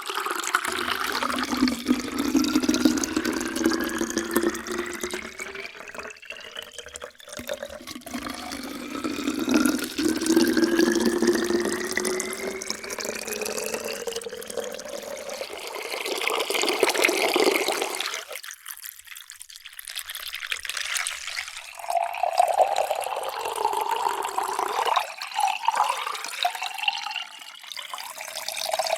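Water being poured into a container, its pitch rising steadily as the vessel fills. Two such fills run back to back, then after a short pause about two-thirds through, another pour begins.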